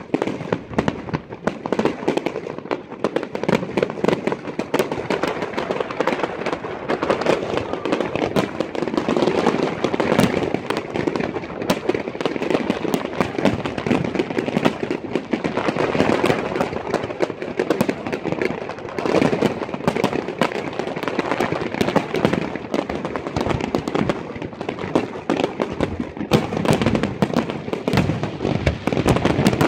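Fireworks display going off in a dense, continuous barrage of sharp bangs and crackling from aerial shells bursting overhead.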